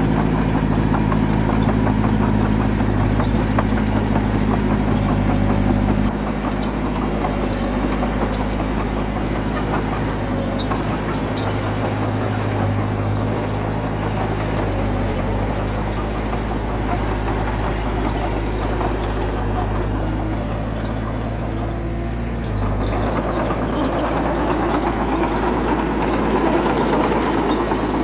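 Diesel engine of heavy earthmoving equipment running steadily with a rough clatter; the engine sound drops about six seconds in and grows louder again some six seconds before the end.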